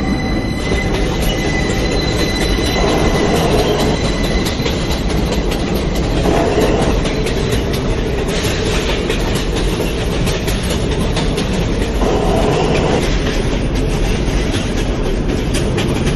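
A New York City subway J train running at speed between stations, heard from inside the car: a steady rumble of wheels on rail. A high wheel squeal fades away in the first second or two.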